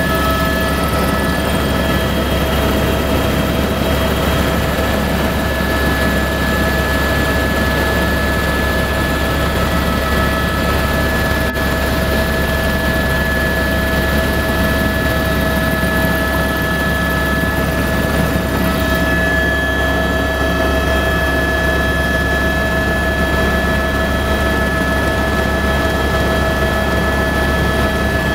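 Helicopter running steadily: a constant deep rotor drone with a steady high turbine whine over it.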